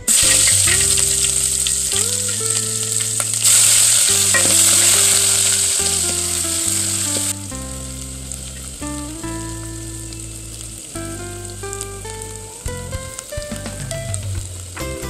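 Onions frying in hot oil in a metal pot, a loud sizzle that drops to a quieter, steadier sizzle about halfway through. Soft background music plays under it.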